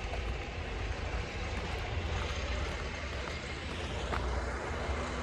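Tractor engine running, a steady low rumble with a faint hum.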